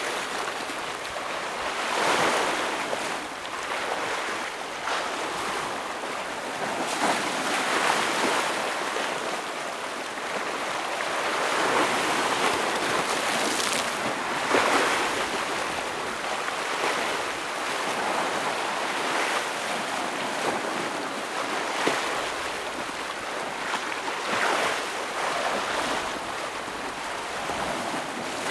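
Ocean waves breaking and washing over shore rocks: a continuous surf wash that swells every few seconds as each wave hits, with one sharper splash about halfway through.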